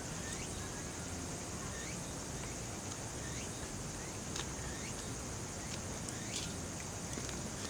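Insects trilling steadily in a high, even band, with short chirps repeating every second or so.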